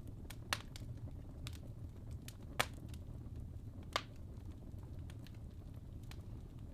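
Wood logs burning in a fireplace: a steady low rumble of flames with scattered sharp crackling pops, the three loudest about half a second, two and a half and four seconds in.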